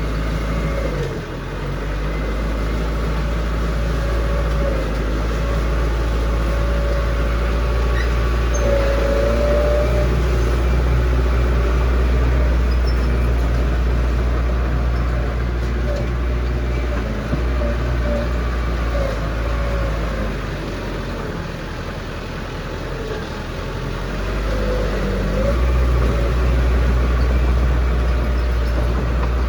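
Heavy diesel construction machinery running steadily with a deep, low rumble. The sound eases off for a few seconds past the middle and comes back up near the end.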